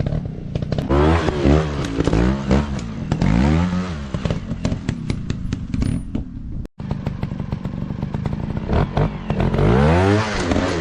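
Dirt bike engines revving in repeated bursts, rising and falling in pitch, with sharp clicks and clatter throughout. The sound briefly cuts out a little past the middle.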